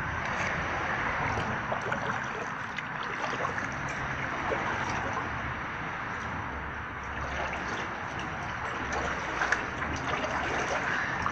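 Water splashing and trickling from kayak paddle strokes, a steady wash with gentle swells and small drips.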